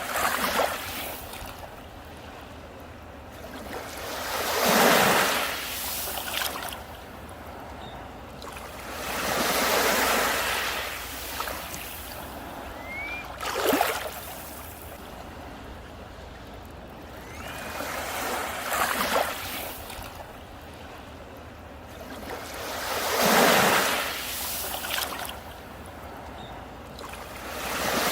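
Sea waves breaking and washing up a beach, each swelling and fading about every four to five seconds, with one sharper, shorter crash about halfway through.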